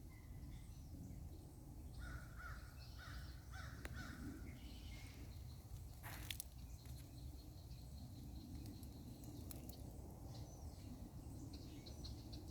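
Faint birds calling outdoors: a run of about five short calls a couple of seconds in, a sharp click about six seconds in, and higher chirps near the end, over a steady low rumble.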